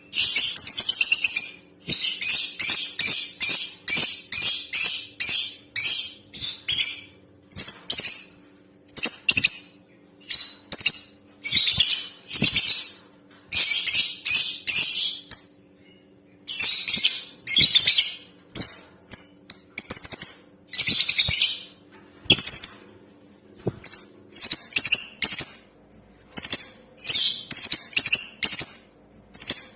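Lovebird calling in shrill, high-pitched chirping bouts, each lasting from about half a second to two seconds, with short pauses between.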